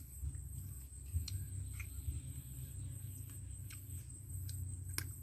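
Mouth sounds of eating chicken by hand: short, scattered wet clicks of chewing and lip-smacking. Underneath runs a steady low rumble and a constant high-pitched whine.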